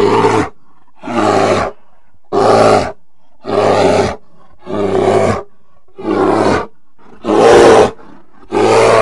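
A bear growling in a run of short, deep calls, about one a second, each lasting well under a second.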